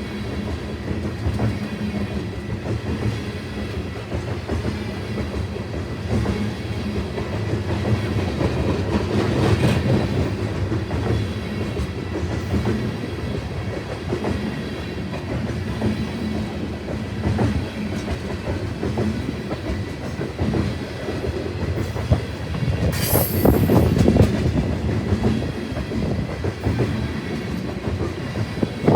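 Train cars rolling past, with a steady heavy rumble and the clatter of wheels over the rail joints. About 23 seconds in there is a short, high wheel squeal.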